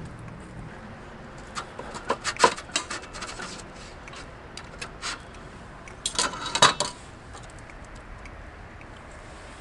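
Cutlery clinking and scraping against a dish during a meal, in two bursts of quick sharp clicks, the second about six seconds in.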